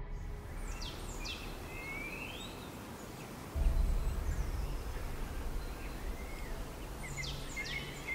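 Bird calls, short chirps sweeping down in pitch, heard early and again near the end, over a soft outdoor ambience. A deep low boom hits about three and a half seconds in and slowly fades.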